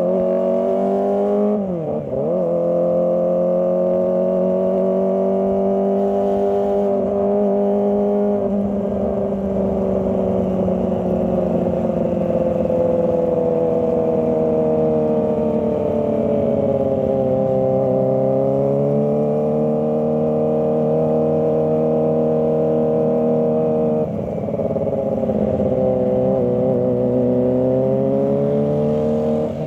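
Kawasaki ZX25R's 250 cc inline-four engine running on a steady, high-revving note that drifts gently up and down in pitch. About two seconds in the revs dip sharply and pick straight back up, and they drop slightly again near the end.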